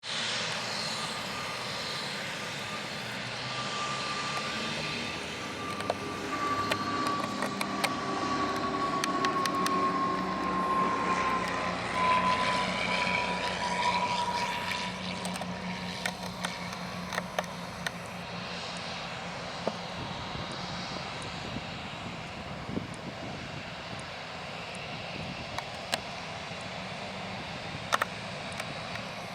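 Airbus A320's CFM56 turbofan engines running as the jet passes, a whining fan tone sliding slowly down in pitch while the sound swells to its loudest about halfway through, then easing to a steadier, quieter rumble. Scattered small clicks are also heard.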